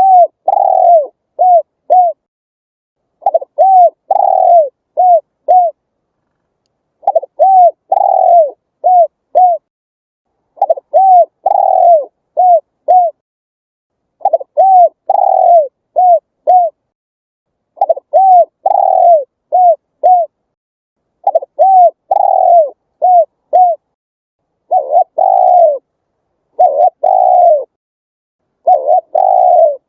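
Spotted dove cooing in repeated phrases of four or five short coos, each coo rising then falling in pitch. A phrase comes about every three and a half seconds, with silence between.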